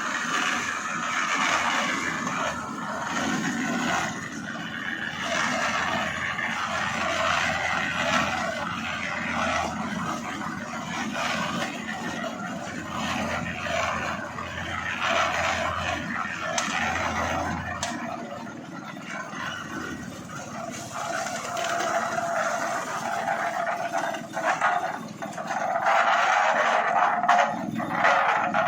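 Concrete mixer running, a steady rough mechanical noise, with scraping and scattered knocks from work around it. A steady hum joins about two-thirds of the way through, and it grows louder near the end.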